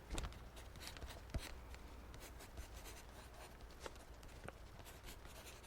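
Faint writing on paper: light, irregular scratches and small taps as a maths problem is worked out.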